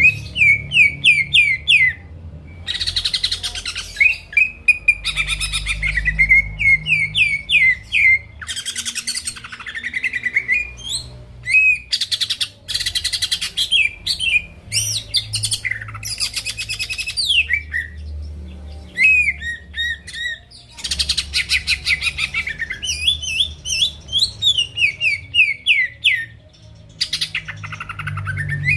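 Cucak ijo (greater green leafbird) singing non-stop: runs of quick, falling whistled notes alternating with harsh, buzzy chattering phrases. This is the bird in full song, played as a lure to provoke rival birds into singing.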